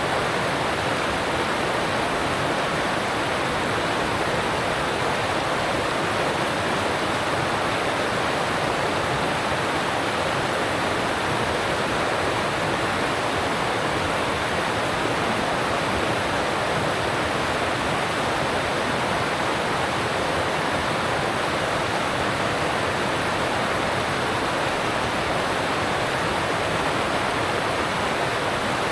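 Alpine mountain stream rushing over rocks, a steady, unbroken roar of water.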